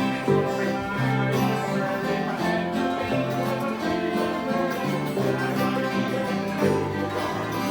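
Acoustic bluegrass music on guitar and other plucked strings, picked at a steady tempo over a moving bass line.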